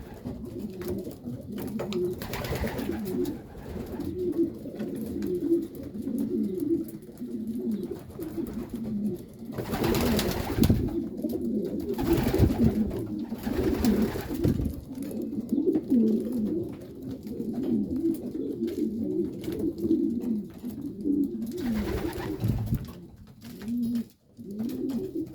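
Many domestic flying pigeon cocks cooing together in a loft, a dense overlapping warble. A few louder rushes of noise cut in now and then.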